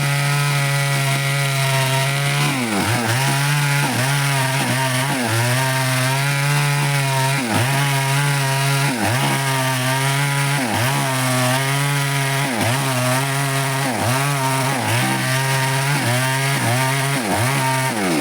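Stihl chainsaw running at full throttle while cutting wood, its engine note dipping briefly and recovering again and again as the chain bites in. The engine falls away toward idle right at the end.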